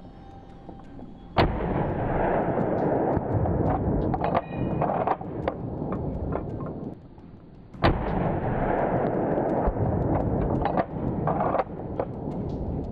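Two hunting rifle shots about six and a half seconds apart, each a sharp crack followed by several seconds of loud rolling noise.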